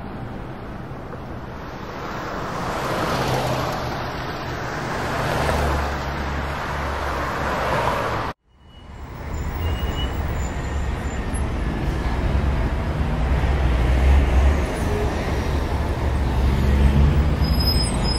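Wind rumbling on the microphone over a steady open-air din. The sound cuts out for a moment a little past halfway.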